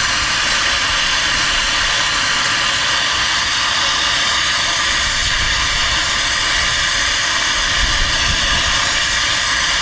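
Brazing torch flame burning with a steady, loud hiss as a refrigerant line joint is heated.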